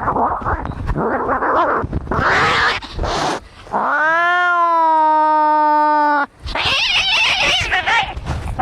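Angry cats fighting: harsh, noisy screeching, then one long yowl of a little over two seconds starting about four seconds in, then more harsh, wavering cries.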